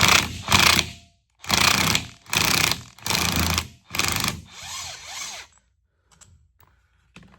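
Ratchet wrench worked in short, fast strokes, about six loud bursts over five seconds, backing bolts out of the baler gearbox housing, then a few faint clicks.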